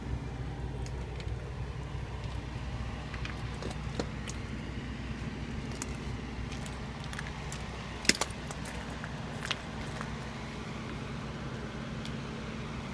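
Steady low engine hum of a vehicle idling, with a few sharp clicks over it, the loudest a quick pair about eight seconds in.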